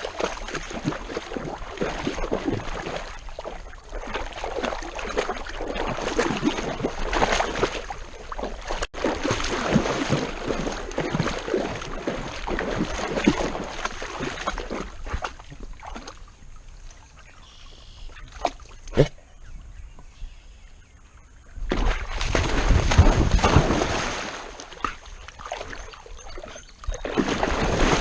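Water splashing and sloshing close by as a dog paddles in a lake, in uneven surges. It eases off past the middle, with a few sharp clicks, then comes back louder with a low rumble.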